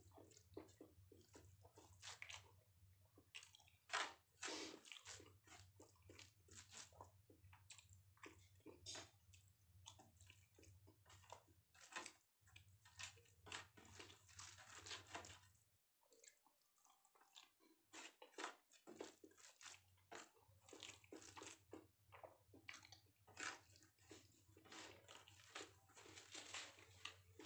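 Quiet close-up eating sounds: a person chewing a mouthful of rice and dal, with fingers squishing and mixing rice on a plate, heard as a dense run of short clicks and crackles. The sounds briefly thin out a little past the middle.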